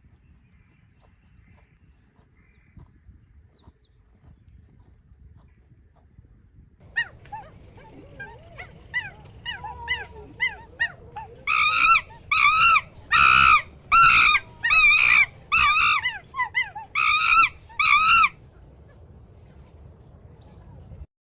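A dog barking: about eight loud, high-pitched barks in a row after several seconds of softer yips and whines.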